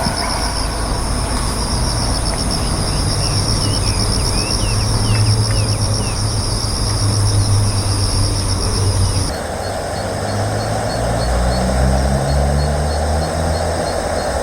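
Insects trilling: a fast, pulsing high-pitched chorus that cuts off abruptly about two-thirds of the way in, replaced by a fainter trill of evenly spaced notes. A low steady rumble runs underneath.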